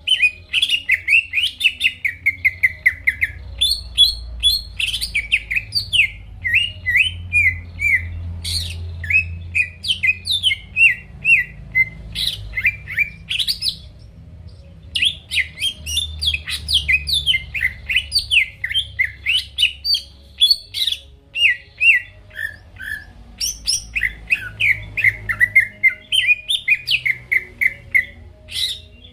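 Green leafbird (cucak ijo) singing in full song: a loud, continuous run of rapid, varied chirps and trills, with a short break about halfway through.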